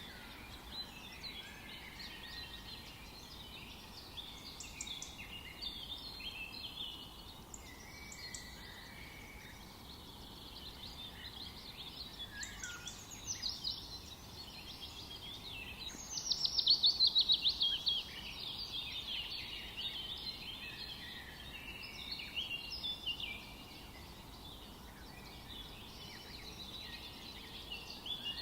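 Several forest songbirds singing and chirping at once over a faint steady background noise. About halfway through, one bird gives a loud, rapid trill of falling notes lasting about two seconds.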